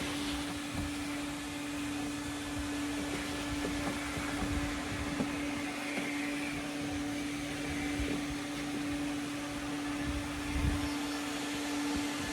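Vacuum cleaner running steadily with a constant whine, sucking up debris inside a truck's interior, with a few soft knocks of the nozzle, the clearest near the end.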